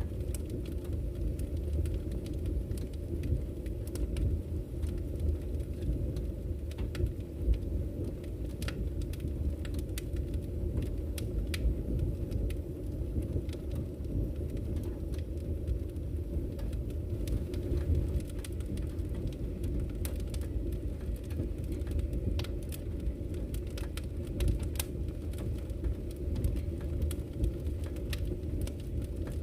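Wood fire burning in a fireplace: a steady low roar of flames with frequent sharp crackles and pops from the burning logs.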